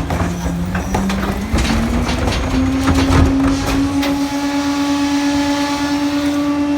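Rear-loading garbage truck's engine revving up over the first two or three seconds and then holding a steady high pitch, as when the throttle comes up to drive the packer hydraulics. Knocks and crunches of trash are heard in the first few seconds.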